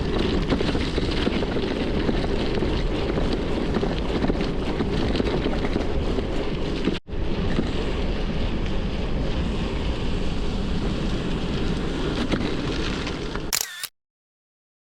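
Steady wind noise buffeting a camera microphone while riding a bicycle, with tyre and road rumble underneath. It cuts out for an instant about halfway through and goes silent near the end.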